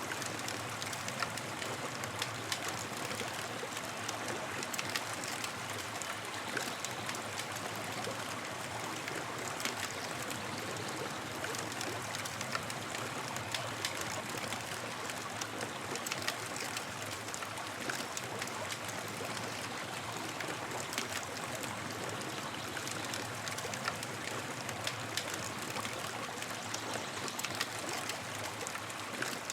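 Campfire burning with a steady hiss and frequent small, irregular crackles and pops.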